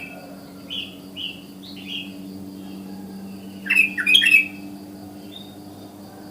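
Sooty-headed bulbul calling: a few short, falling chirps in the first two seconds, then a loud cluster of quick whistled notes about four seconds in, over a steady low hum.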